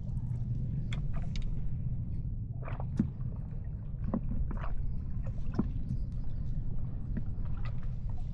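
Water lapping and splashing in small scattered slaps and knocks over a steady low rumble, with one sharper knock about three seconds in.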